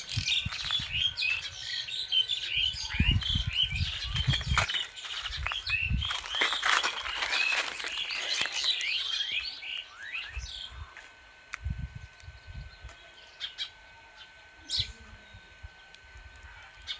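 Many small birds chirping in quick, overlapping calls for about ten seconds, then thinning to a few scattered calls. Low thuds sound beneath the chirping in the first half.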